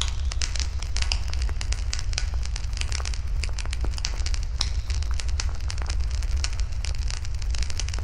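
Wood fire burning in a fire pit, crackling with many irregular sharp pops and snaps over a steady low rumble.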